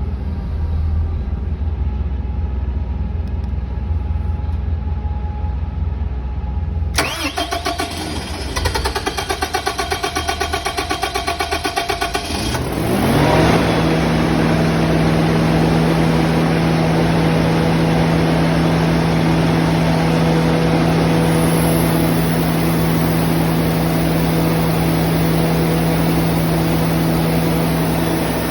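An engine turned over by its starter in a long crank of rapid, even strokes, catching about thirteen seconds in, rising in pitch and settling into a steady idle. Before the cranking there is a low rumble.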